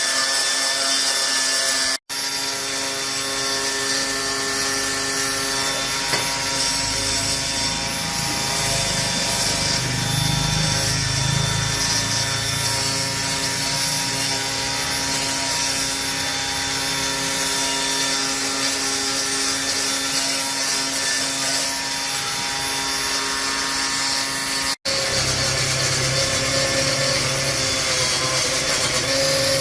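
A small electric power tool motor running steadily with a whine, over a scraping rub of work against the tool. The sound drops out abruptly twice.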